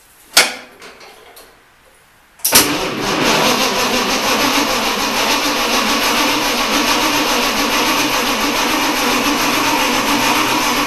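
A sharp click, then about two and a half seconds in the starter motor begins cranking the Ford 8N tractor's engine steadily without it catching. It won't start because the fuel is turned off.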